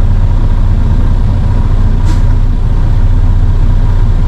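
Dump truck's diesel engine running with a steady low rumble, and a short hiss about two seconds in.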